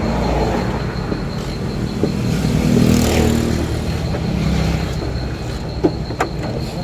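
A motor vehicle engine running, with a low rumble that swells and rises in pitch about three seconds in, then eases off. A few short clicks near the end.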